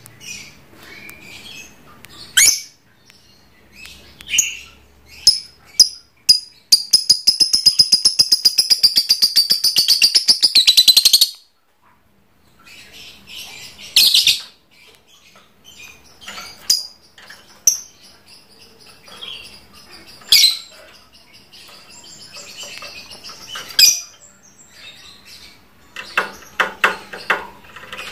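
Lovebird singing: scattered sharp, high chirps and squawks, and from about seven to eleven seconds in a long, rapid chattering trill, the 'ngekek' that lovebird keepers prize.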